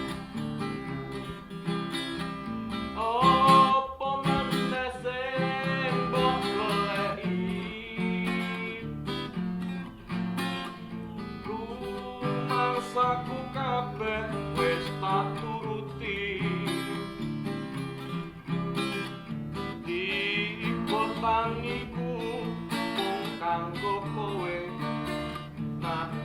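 Acoustic guitar strummed and plucked under a singer's voice.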